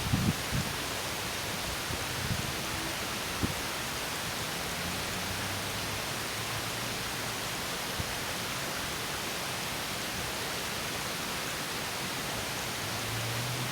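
Water pouring over a small drop in a stream, making a steady, even rush. A few soft low knocks come in the first few seconds.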